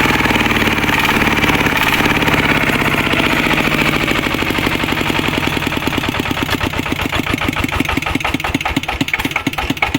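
Kubota walking tractor's single-cylinder diesel engine running, then slowing about halfway through to a lower idle where each firing beat can be heard separately.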